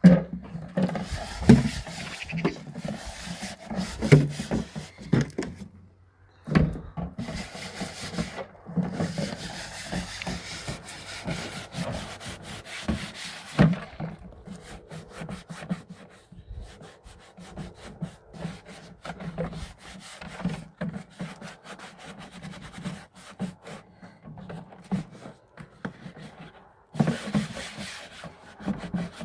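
Quick, repeated scrubbing strokes rubbing against a hard surface, with a short break about six seconds in.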